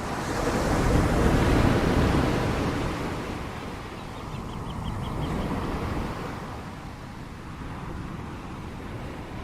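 Ocean waves breaking on the shore: one large wave swells and crashes about a second in, then washes back, with a smaller wave rolling in around the middle over a steady surf hiss.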